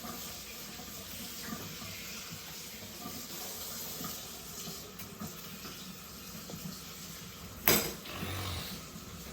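Water running from a kitchen tap into a sink, with one sharp knock a little before the end, as of something hard set down or bumped.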